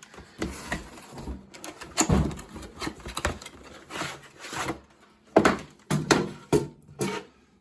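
Irregular knocks, clicks and scraping of an object being handled, with sharp knocks about 2 seconds in and again a little after 5 seconds.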